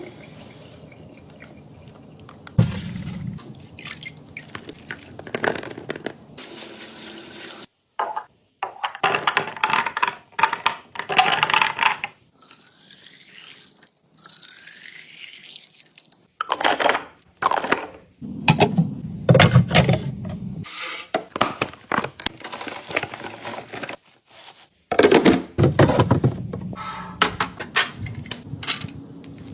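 Tap water running into a kitchen sink as produce is rinsed, in short bursts broken by sudden cuts, with clicks and knocks of containers being handled. About halfway through, water filling a container rises in pitch twice.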